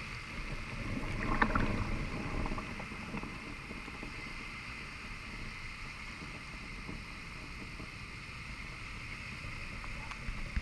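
Pacific surf washing onto a sandy beach: a steady rush of water, with one louder wave surging in and fizzing about a second in.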